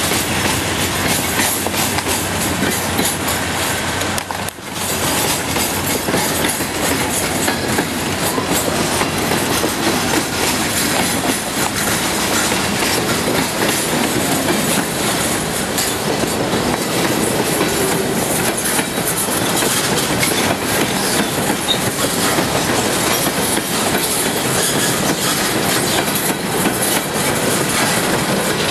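Norfolk Southern freight train passing at close range, its diesel locomotive and then boxcars going by. The wheels make a steady loud rumble and clatter on the rails.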